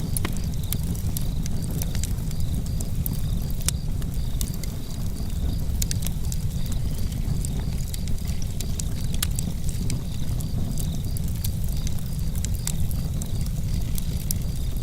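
Campfire crackling: frequent small sharp pops and snaps at irregular intervals over a steady low rumble.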